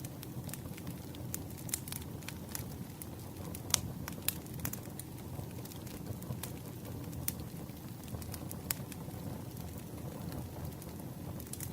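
Campfire burning: a steady low rumble of flames with wood crackling in irregular sharp pops. One pop a little under four seconds in is the loudest.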